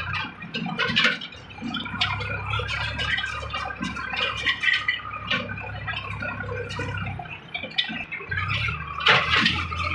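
Sonalika DI 740 III tractor's diesel engine running steadily, with irregular clatter and squeaks over it; the engine hum drops out briefly about three-quarters of the way through.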